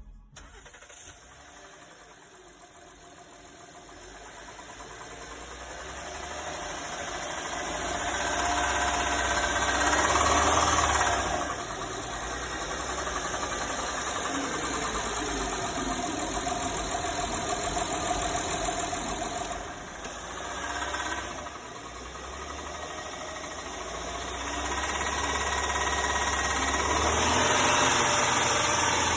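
Engine running and being revved up and down, with a knock that comes in at about 1500–2000 rpm. The valves are adjusted and the timing is in order; the owner puts the knock down to worn lobes on the front camshaft. The revs climb slowly over the first ten seconds, drop suddenly, dip briefly midway and rise again near the end.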